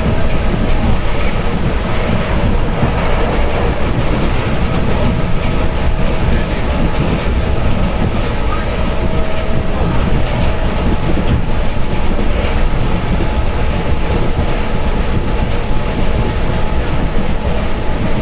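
A passenger train running on rails: the steady rumble and clatter of the wheels, with a faint steady whine over it.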